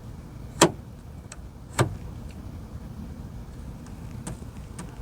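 Lexus SC430 door latch mechanism clicking sharply twice, about a second apart, then a few faint ticks, as the newly fitted adjustable latch cable is worked to check that it moves the latch.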